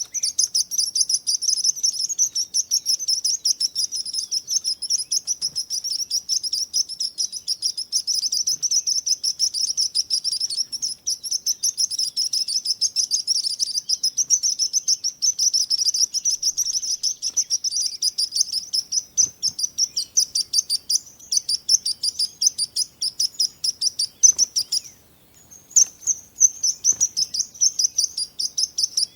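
Birds chirping in a dense run of rapid, high-pitched notes, pausing briefly near the end.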